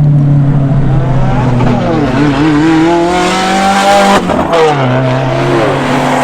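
Performance car engine accelerating hard. It is steady at first, then its pitch climbs from about two seconds in, drops sharply about four seconds in, and settles at a lower steady note.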